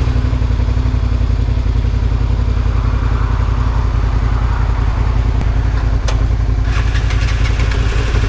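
Motorcycle engine idling steadily with an even low throb, just after starting.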